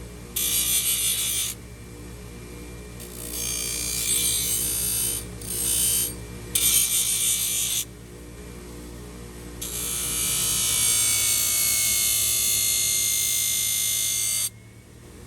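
Small electric power tool buzzing steadily, with several short grinding passes of about a second each and then one longer pass of about five seconds that stops abruptly near the end, as it works hoof horn.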